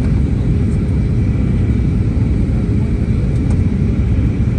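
Airbus A320neo cabin noise: a steady, loud low rumble of engines and airflow heard inside the passenger cabin.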